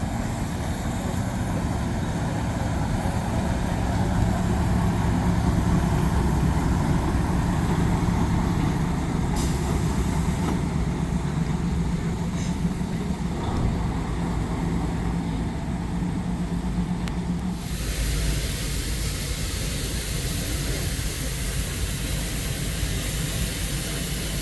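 British Rail Class 03 diesel shunter D2133 running, its Gardner diesel engine giving a steady low note; about two-thirds of the way through the sound changes abruptly to a lighter, noisier rumble.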